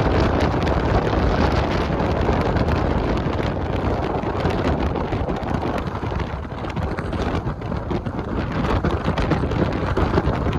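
Strong wind rushing over the microphone while riding a motorcycle: a loud, dense rushing noise that eases a little about six seconds in.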